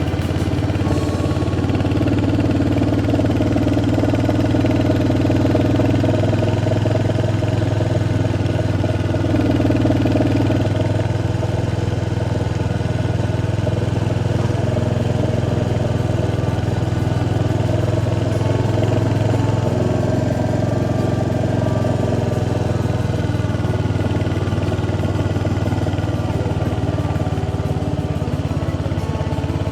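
Royal Enfield Hunter 350's single-cylinder engine running steadily while the motorcycle is ridden, its note shifting slightly a few times in the first ten seconds.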